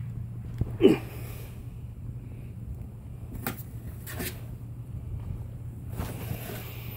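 Kittens at play: a short cry that falls in pitch about a second in, then a few brief scuffling noises, over a steady low hum.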